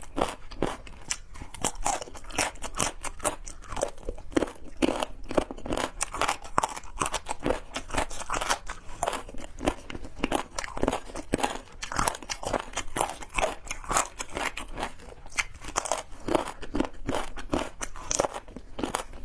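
A person crunching and chewing food on a close microphone: a dense, irregular run of sharp crackling clicks that doesn't let up.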